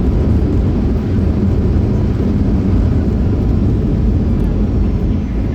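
Loud, steady low rumble of a Boeing 737 airliner's engines and airflow heard inside the passenger cabin during landing.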